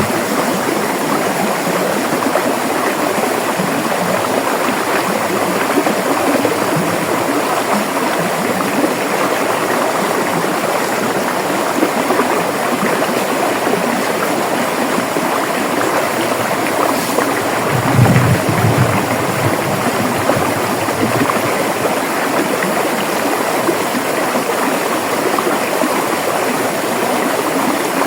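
River water flowing in a steady rush, with a brief low rumble about two-thirds of the way through.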